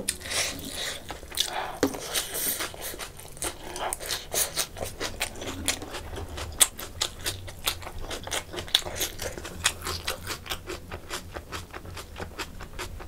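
Close-miked chewing of a handful of food eaten by hand: a fast, uneven run of small wet smacks and clicks from the mouth.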